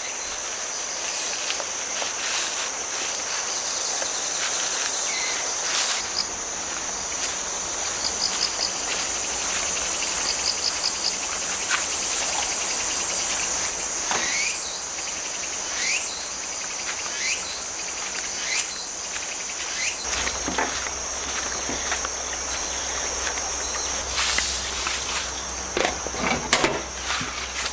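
Autumn grass insects, crickets, chirping in a steady high-pitched chorus, with a couple of short rapid chirp trains. Scattered light clicks and knocks sound over it, more of them near the end.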